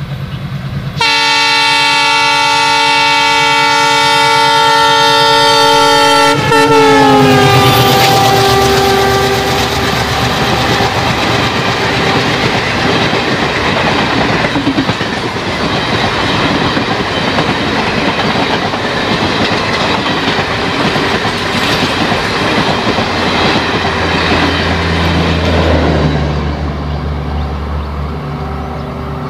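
ALCO diesel locomotive sounding a loud multi-note horn, held for about five seconds from about a second in, its pitch dropping as the engine passes. Then the passenger coaches run past with a steady clickety-clack and rumble over the rail joints.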